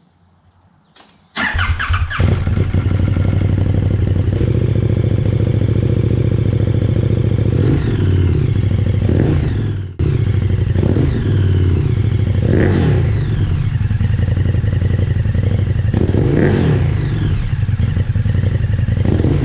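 KTM 1290 Super Duke R's V-twin engine starting through a new SC Project SC1-R carbon fiber slip-on exhaust, catching about a second and a half in, then idling with about four quick throttle blips that sweep the revs up and back down.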